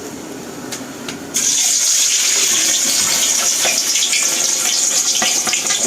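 Boiled pork belly hitting deep hot oil in a frying pan: about a second and a half in, a loud, steady frying sizzle starts, with oil popping and crackling throughout.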